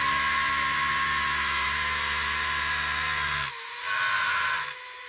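Loud, steady hiss of compressed air from a hose over a low machine hum. Both cut out about three and a half seconds in, the hiss comes back for about a second, then it falls to a fainter hiss.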